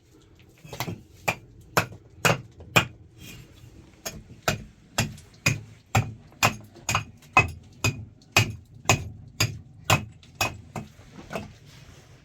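Steady hammering: sharp, even strikes about two a second, with a slight ring to each blow.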